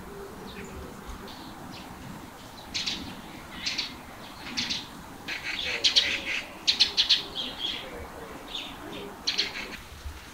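Small birds chirping in short, sharp bursts, sometimes several a second, busiest through the middle and thinning out near the end.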